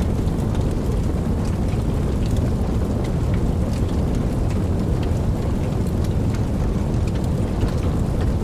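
Steady rain, with a continuous low rumble underneath and scattered sharp drop ticks.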